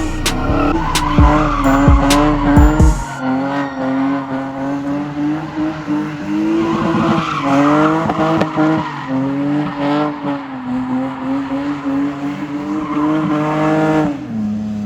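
A car engine held at high revs, its pitch climbing and dropping again and again, with tyres squealing as the car does a burnout or donuts. Heavy low thumps sound in the first few seconds, and the revs fall off near the end.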